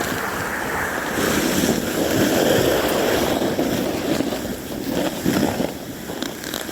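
Sled sliding fast down an icy snow slope: a continuous scraping hiss, with wind rushing over the microphone. It eases off near the end as the sled slows.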